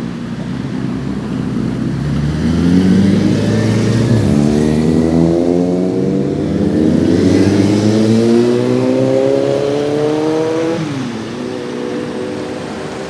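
Diesel railcar engines revving up as the train accelerates: the pitch climbs, dips about four seconds in, climbs again for several seconds, then falls sharply near the end.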